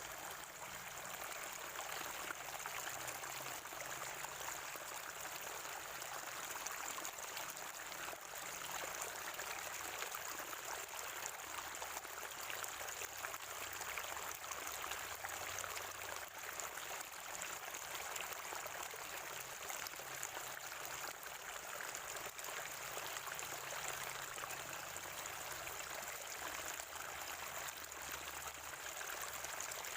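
Spring water running and gurgling steadily, an even trickling wash that doesn't let up.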